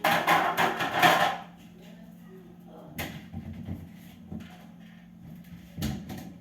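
Household items clattering for about a second and a half as they are handled, then two single knocks a few seconds apart, over a steady low hum.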